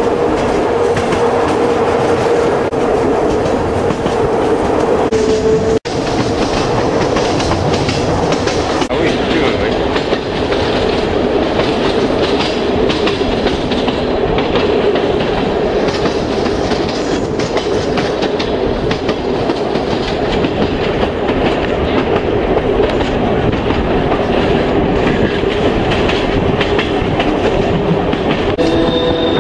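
Train Jaune's electric metre-gauge train running at speed, heard from its open carriage: a steady rumble of wheels on rail with a clickety-clack of rail joints and a steady whine.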